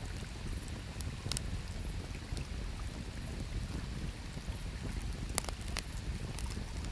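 Wood campfire crackling, with a few sharp pops, the two loudest about five and a half seconds in, over the steady low rush of river water.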